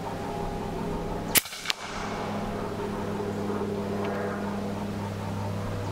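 One shot from an EDgun Leshiy 2 semi-automatic PCP air rifle in .22: a sharp crack about a second and a half in, then a second, quieter snap about a third of a second later. A steady low hum runs underneath.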